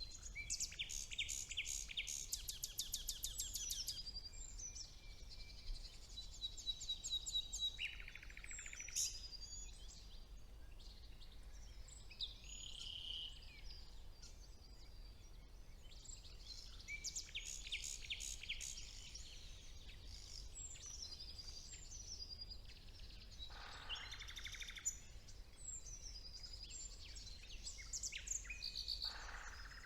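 Songbirds singing in a spring woodland, a nightingale among them: phrases of rapidly repeated notes and whistles that sweep downward, one after another. A faint low hum lies underneath.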